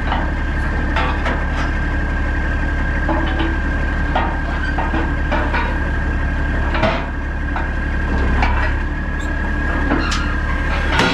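Heavy diesel machinery running steadily, with a constant low rumble and a high whine, and scattered clanks and knocks throughout. The sound cuts off suddenly right at the end.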